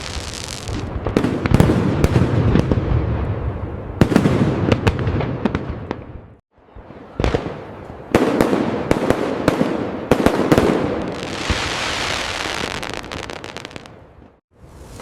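Fireworks display: a rapid run of sharp bangs and crackles over rumbling booms, breaking off briefly about six seconds in, then a hissing crackle swelling around twelve seconds before fading near the end.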